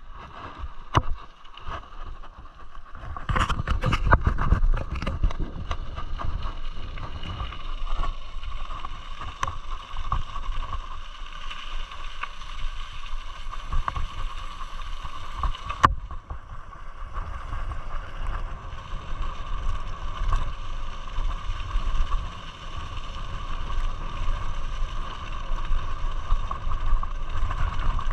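Rushing waterfall water and rumbling buffeting on the microphone, with a steady faint whine running through it. A few knocks come in the first few seconds and a sharp click comes a little past the middle.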